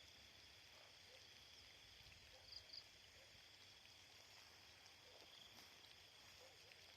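Near silence: faint steady outdoor ambience with a thin high hum, and two faint short chirps about two and a half seconds in.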